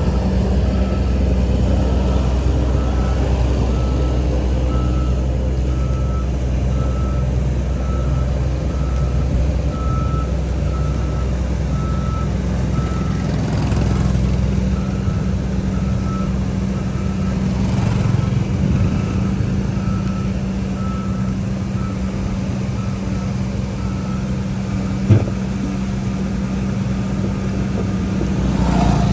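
Heavy diesel machinery running steadily, with a reversing alarm beeping about once a second while a machine backs up; the beeping stops near the end, followed by a single short knock.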